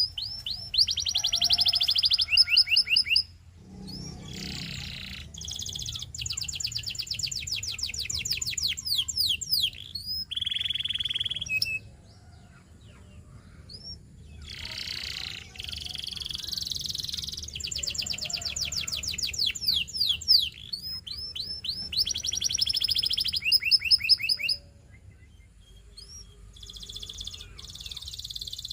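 Canary singing: fast trills of rapidly repeated high notes, in phrases several seconds long broken by short pauses.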